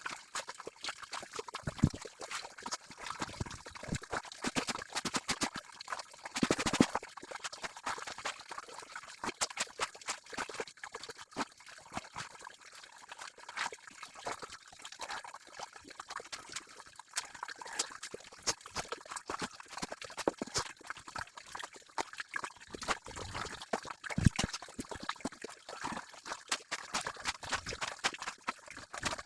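Clothes being washed manually: water trickling and dripping, with a steady stream of small, irregular clicks and knocks.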